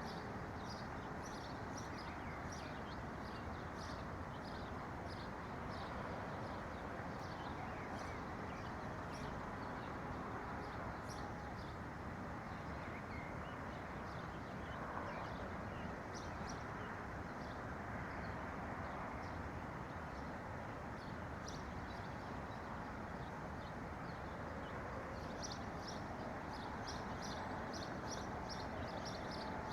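Small birds chirping in short high notes, scattered throughout and busiest near the start and near the end, over a steady low background hiss.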